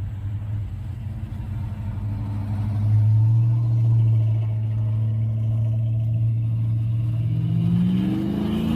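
Car engine rumbling steadily as a car pulls out. It grows louder about three seconds in, then revs up, rising in pitch, near the end.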